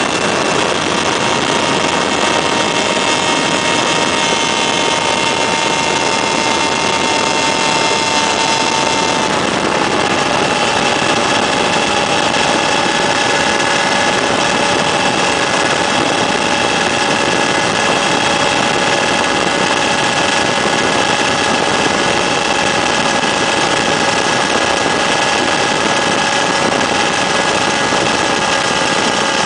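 Weedhopper ultralight's small two-stroke engine and propeller running steadily, with a slight drop in pitch about nine seconds in as the throttle eases back.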